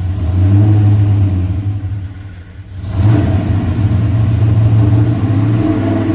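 Supercharged 416 cubic-inch V8 running rough just after start-up, revved to keep it from stalling. It sags and nearly dies about two and a half seconds in, then picks back up. The owner puts its struggle down to a cam that is way too big.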